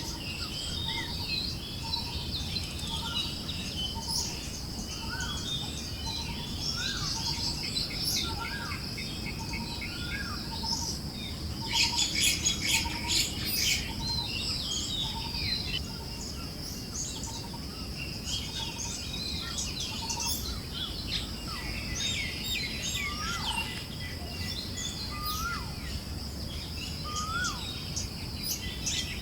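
Forest birds chirping and calling, one repeating a short note about twice a second, with a denser flurry of chirps about twelve seconds in. Underneath runs a steady high insect buzz and a low rush of wind.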